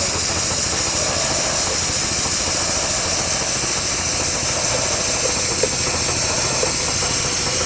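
An engine-driven machine running steadily, with a constant hiss of air over it.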